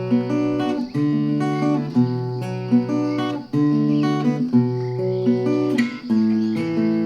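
Background music: acoustic guitar playing chords, with a new strum or pluck about once a second.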